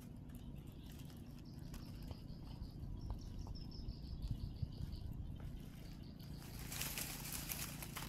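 A small bird gives a faint string of short, high chirps, several a second, for a few seconds over a low outdoor rumble. Near the end comes a loud burst of rustling hiss.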